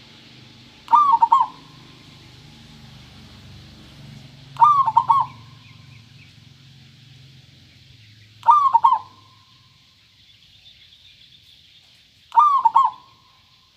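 Zebra dove (perkutut) cooing: four short phrases of quick, clear cooing notes, one about every four seconds.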